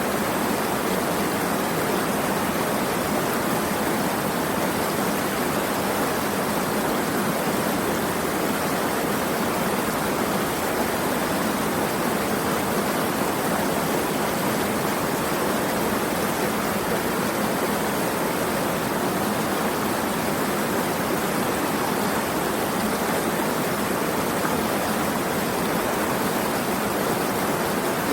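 Steady, even rushing of flowing water, a constant noise with no splashes, drops or changes in level.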